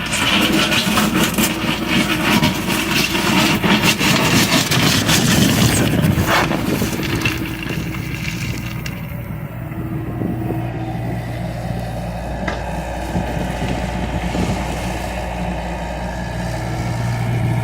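John Deere excavator's diesel engine running under load, with dense clattering and knocks for the first six seconds or so. It then settles into a steadier drone that swells again near the end.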